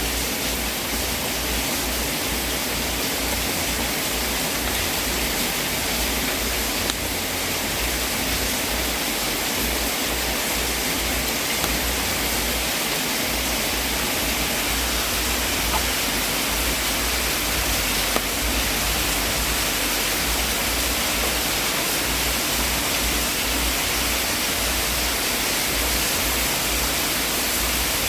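Wood fire burning in a fireplace: a steady rushing hiss with a few faint pops.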